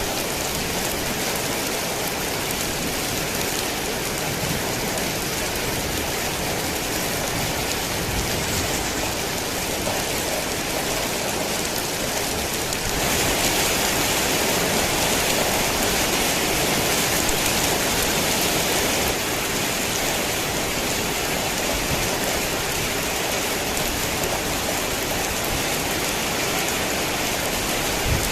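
Heavy rain falling steadily, a dense hiss of drops that swells louder about halfway through for several seconds and then eases back.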